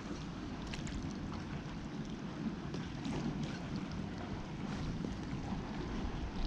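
Wind buffeting the microphone, with water moving against the kayak as a steady low rumble and faint scattered ticks.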